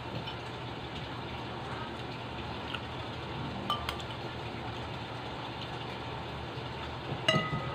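Spoon or fork clinking against a plate a few times during a meal, with short ringing tones and the loudest clink near the end, over a steady low hum.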